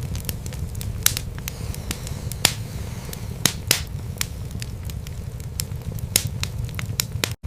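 Wood fire burning in a fireplace: a steady low rumble of flames with frequent sharp, irregular crackles and pops. The sound cuts out for an instant near the end.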